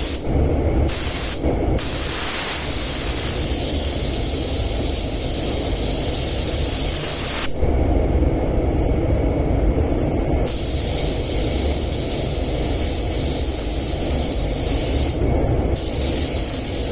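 Compressed-air paint spray gun hissing as paint is sprayed on a car body panel. The hiss stops briefly near the start, for about three seconds in the middle and briefly near the end, as the gun is let off between passes. A steady low rumble continues underneath.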